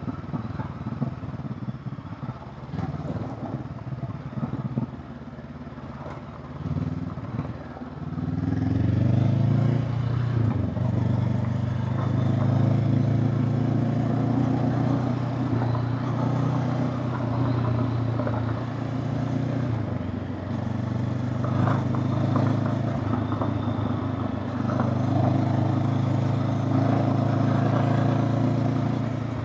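Honda CB500X parallel-twin motorcycle engine, quieter and uneven at first, then revving up about eight seconds in and pulling steadily under load, with a few brief dips in revs.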